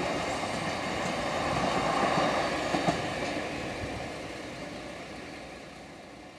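A freight train of covered bogie hopper wagons rolling away along the track, its rumble fading steadily into the distance, with a couple of wheel clacks about three seconds in.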